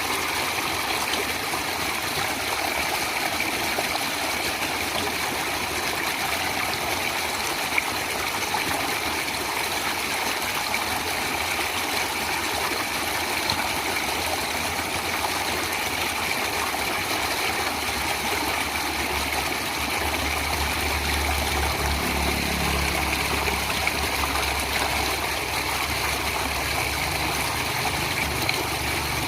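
Steady rushing of running stream water. About two-thirds of the way in, a low steady rumble joins underneath and grows stronger.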